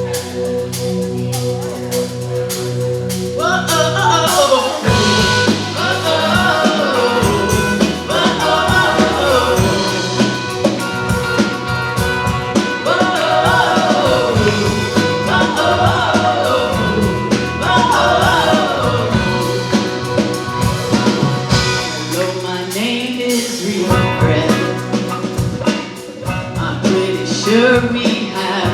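Live worship band music: held keyboard chords, then a singing voice comes in, and drums join about five seconds in.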